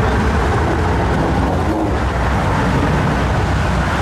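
Loud, steady low rumble of car engines and exhausts, with road noise from cars passing close by.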